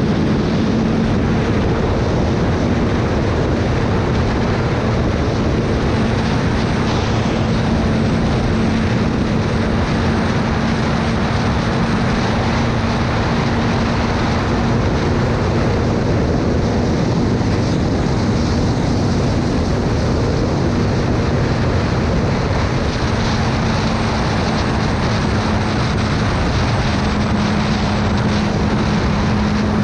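Motorcycle engine running at a steady cruising speed under loud, even wind rush; the engine hum holds nearly one pitch, dipping slightly a couple of times.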